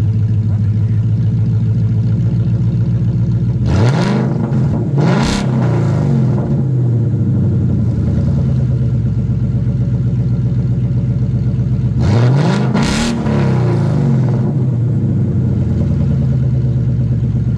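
2017 Mustang GT's 5.0 Coyote V8 running through an aftermarket cat-back exhaust. It runs at a steady note, and twice, about four and about twelve seconds in, the engine is revved in a quick double rev that rises and falls back.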